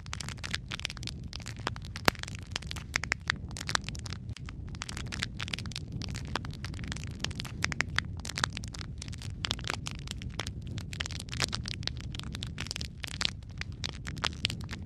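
Wood fire burning in a fireplace: dense, irregular crackles and pops over a low steady rumble of the flames, with one sharper pop about two seconds in.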